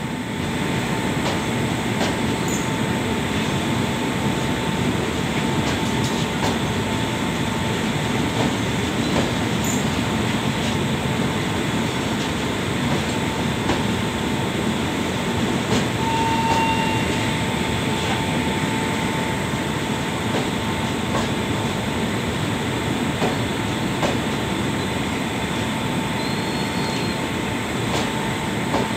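LHB passenger coaches rolling past along the platform as the train comes in: a steady rumble of wheels on rail with faint scattered clicks. Above it runs a thin steady whine, briefly louder about sixteen seconds in.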